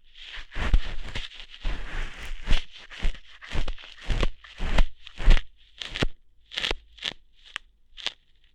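ASMR ear-hair plucking sounds made close to the microphone: a rapid run of crackling, tearing rustles, each with a dull thud under it. The strokes are dense at first and come as fewer, separate snaps near the end.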